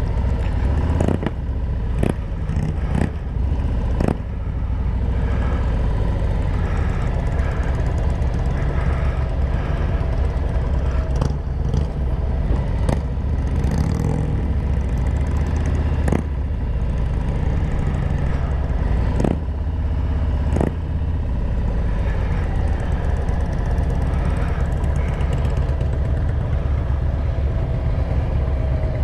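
Harley-Davidson Road Glide's V-twin engine running steadily at highway speed under heavy wind noise, with a handful of short sharp knocks, most of them in the first few seconds.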